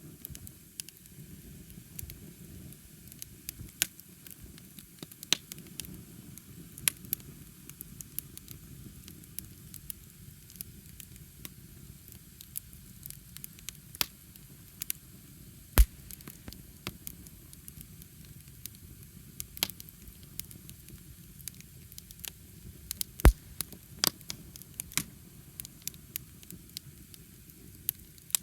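Wood bonfire burning: a steady low rush of flame under irregular sharp crackles and pops of burning wood, with two much louder pops, one about halfway through and one later.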